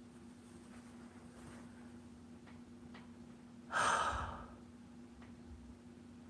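A single short breathy exhale, like a sigh, about four seconds in, over quiet room tone with a steady low hum and a few faint clicks.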